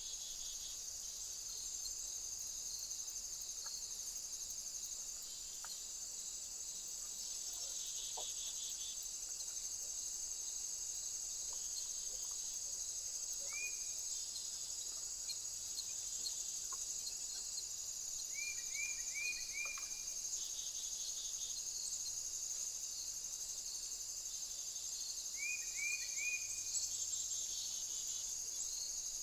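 Steady, high-pitched chorus of insects, with a bird calling now and then in short quick runs of three or four sweeping notes, about halfway through and twice more towards the end.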